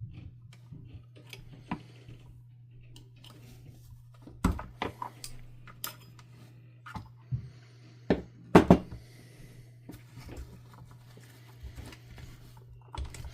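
Irregular clicks and knocks of hard plastic and metal vacuum-cleaner parts being handled and taken apart, loudest about four and a half and eight and a half seconds in, over a steady low hum.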